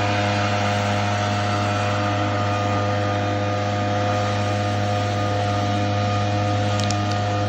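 A small engine or motor running steadily at a constant speed, a continuous hum that holds one pitch throughout.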